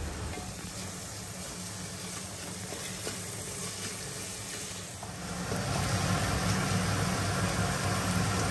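Chopped tomatoes sizzling in hot oil in a steel pot as a spatula stirs them through fried onion and ginger-garlic paste. A steady low hum runs underneath, and the sound grows louder about halfway through.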